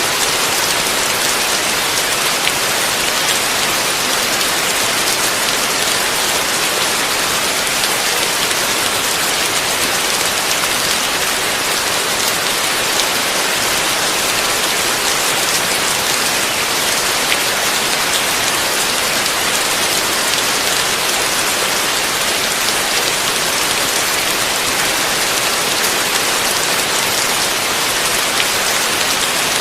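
Heavy rain pouring steadily, a dense even hiss of falling drops that holds without a break.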